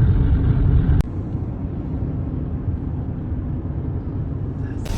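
Steady low rumbling noise that cuts abruptly about a second in to a slightly quieter rumble.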